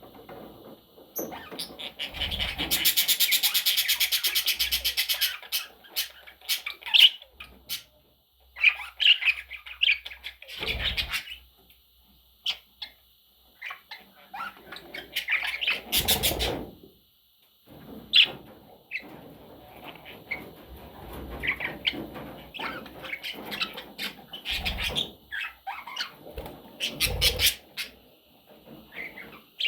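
Budgerigar chattering: a string of short chirps and warbles, with a fast, even, buzzy rattle a few seconds in. Scattered low thumps run through it.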